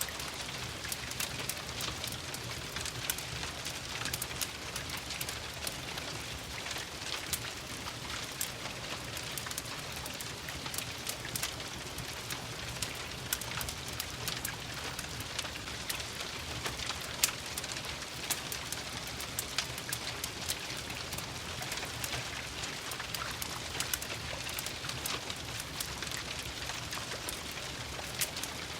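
Steady rain pattering, an even hiss full of small sharp drop ticks, mixed with the light crackle of a wood fire.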